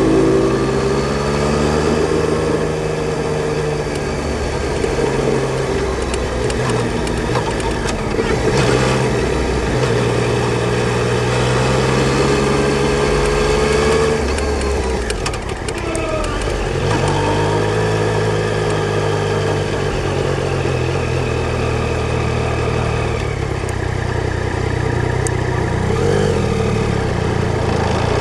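Yamaha Tracer 900 GT's three-cylinder engine running under way. Its note holds fairly steady, drops off briefly about halfway through and then builds again.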